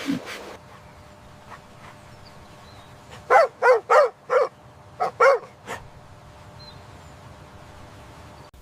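Dog yapping: a quick run of about four short, high yaps, then about three more.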